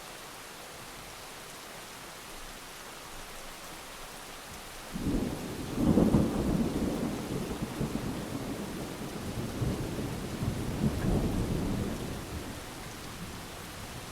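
Heavy rain falling steadily, with a thunderclap breaking in about five seconds in, loudest a second later, then rumbling on in swells for several seconds before fading back under the rain.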